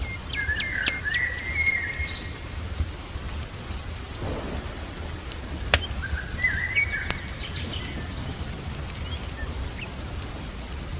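Birds chirping in two short bursts of song over steady rain, with a few sharp pops from a crackling fireplace.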